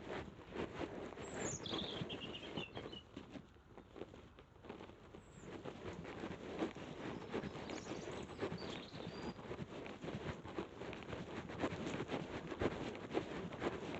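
Dense, irregular patter and rustling picked up by a body-worn camera while walking. A bird gives a short descending chirpy call about a second and a half in, with fainter bird notes later.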